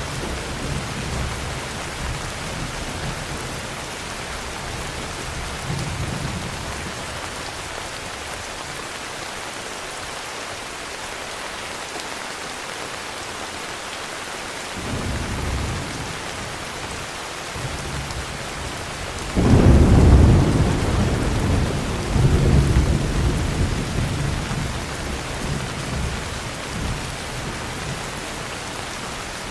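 Heavy rain falling steadily, with rolls of thunder: low rumbles early on and about halfway, then a sudden loud thunderclap about two-thirds of the way in that rumbles on and fades over several seconds.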